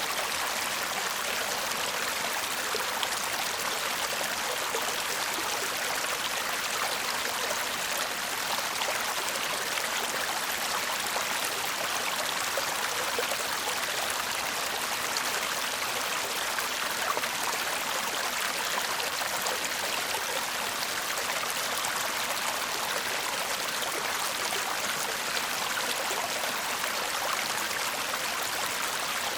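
Shallow stream babbling and murmuring steadily over stones, an even, unbroken rush of water.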